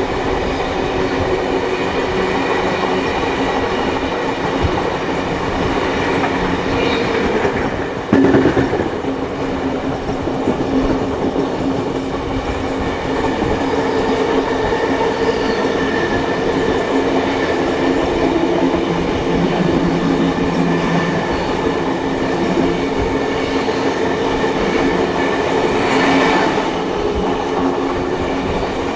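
Steam-hauled train heard from on board, its carriages running steadily on the rails with wheel clatter and a constant rumble. A sudden loud knock about eight seconds in.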